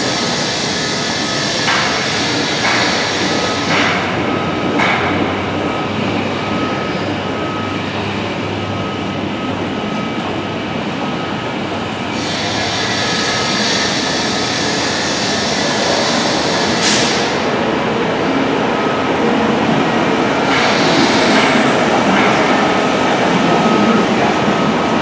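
A moving train: a steady rumble and rattle, with a few sharp clanks.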